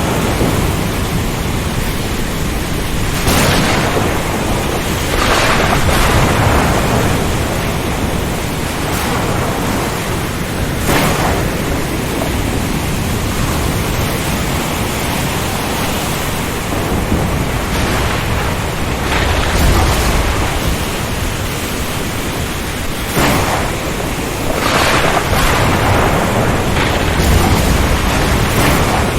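Storm at sea: steady rain and wind noise that swells into loud surges every few seconds, with low rumbles of thunder.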